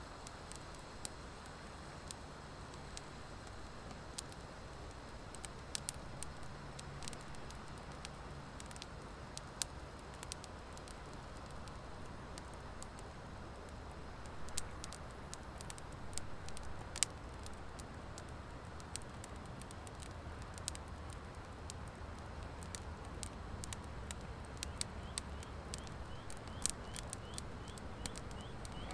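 Wood fire burning in an open fire pit: a steady low rush of flame with sharp crackles and pops from the dry hardwood, scattered at first and coming more often in the second half.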